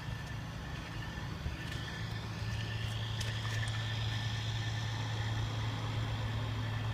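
A heavy truck engine idling steadily, a low even hum that grows slightly louder about a third of the way in, with a faint high whine above it.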